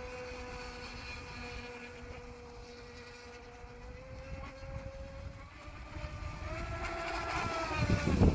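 HK Princess RC model yacht's stock 1620KV electric motor whining steadily under way, rising in pitch and getting louder over the last couple of seconds as it speeds up.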